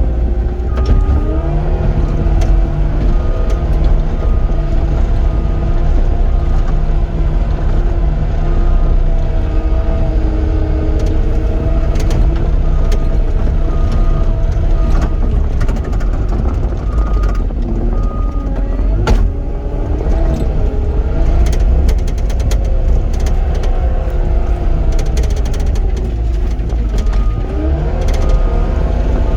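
Cat 259D compact track loader's diesel engine running under load, its pitch rising and falling as the machine grades dirt. A high beep repeats about every second and a half during several stretches, like a backup alarm while it reverses, and scattered clanks come from the tracks and bucket.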